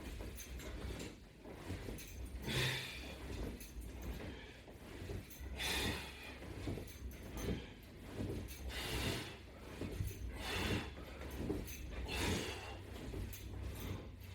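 A person breathing hard in a slow, even rhythm, a forceful exhale about every three seconds, paced like repeated sit-up or crunch reps. A steady low hum runs underneath.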